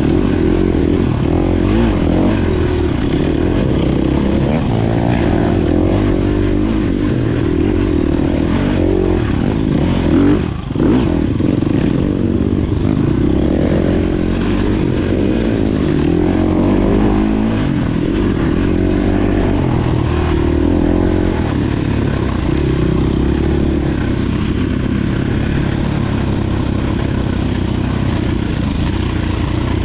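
Dirt bike engine running under way, its pitch rising and falling with the throttle, with a brief drop in level about ten seconds in.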